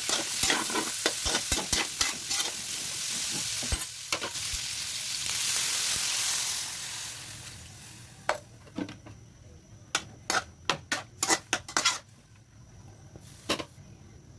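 Chicken feet sizzling in a frying pan while being stirred, with quick clicks and scrapes of the utensil against the pan. About seven seconds in the sizzle fades away, leaving a string of sharp separate taps and knocks.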